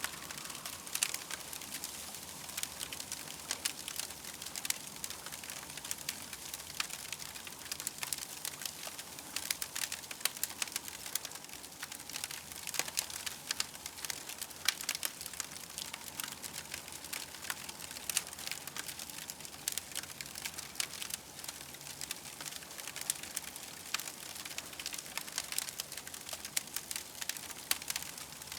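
Campfire crackling steadily: dense, irregular pops and snaps over a soft steady hiss.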